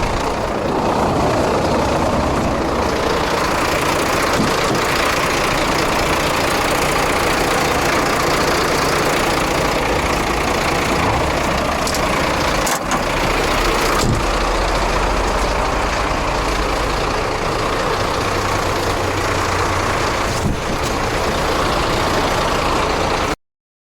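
Scania truck's diesel engine running steadily, with a few brief knocks. The sound cuts off abruptly near the end.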